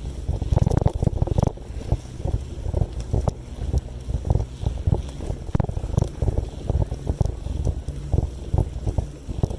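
Wind buffeting the microphone of a moving bicycle rider: loud, irregular gusty rumbling in uneven pulses.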